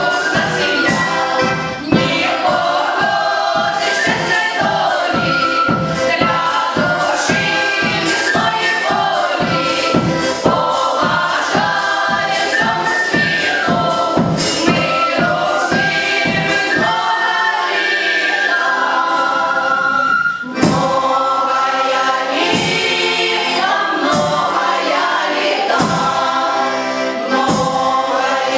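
A folk choir singing a Ukrainian folk song over a steady beat. About two-thirds of the way through, the low beat drops out for a few seconds while the voices carry on, then returns.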